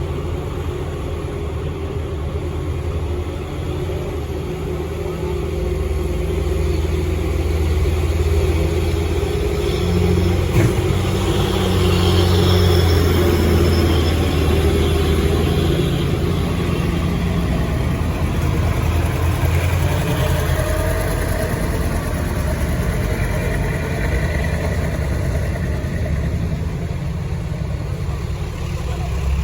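Motor vehicle engines running at low speed, a steady low hum that swells through the middle of the stretch, with one sharp click about ten seconds in.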